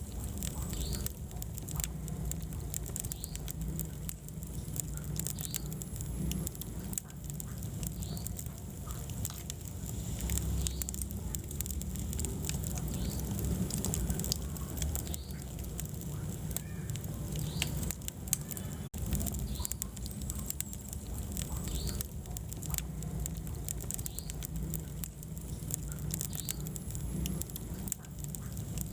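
Wood fire burning in a fireplace: a steady low rumble of flames with dense, irregular crackles and pops throughout.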